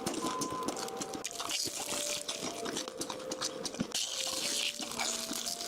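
Close-up crunching and chewing of crispy fried meat, a rapid run of crisp bites. Faint held tones of a simple melody step between notes behind it.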